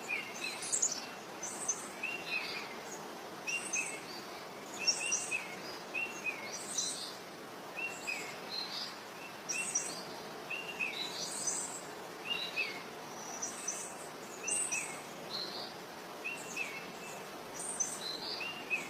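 Birds chirping, short calls repeating roughly once a second over a steady background hiss.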